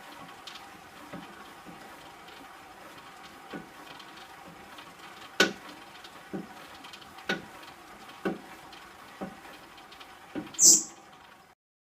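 Kettler CTR3 cross trainer clacking in time with its stride, a sharp knock about once a second over a faint steady hum, with a louder knock near the end before the sound cuts off. The owner cannot trace the noise, which remains even though both pendulum ball bearings have been replaced.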